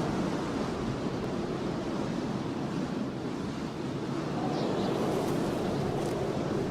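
Starch being crunched and squeezed continuously, a dense, grainy rushing crackle without separate strikes.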